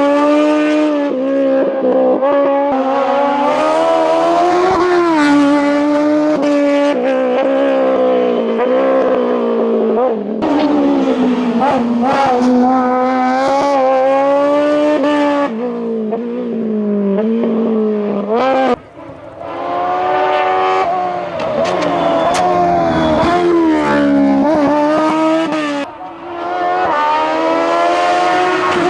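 Competition car engine at full throttle on a hillclimb, its pitch climbing hard and then dropping at gear changes and lifts off the throttle, over and over. The sound drops out briefly about two-thirds of the way through.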